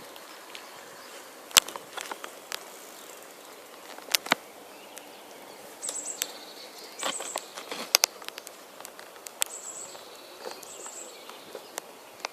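Outdoor background with short, high chirps and scattered sharp clicks and taps at irregular moments.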